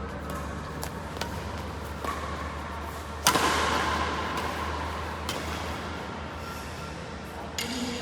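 Badminton rackets striking a shuttlecock during a rally: a series of sharp cracks a second or two apart, with one much louder hit about three seconds in. A steady low hum runs underneath.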